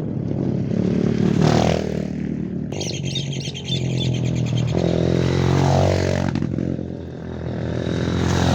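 Dirt bike engines revved in neutral, the pitch rising and falling several times in overlapping blips.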